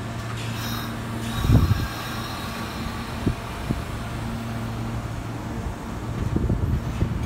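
Kintetsu 22000 series ACE limited-express train standing at the platform, its onboard equipment giving a steady low hum, with a hiss near the start. Dull low thumps, the loudest about one and a half seconds in and several near the end, are wind buffeting the microphone.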